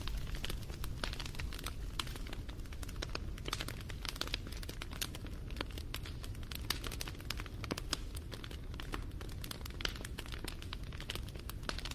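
Wood fire crackling: dense, irregular snaps and pops over a low, steady rumble of the burning.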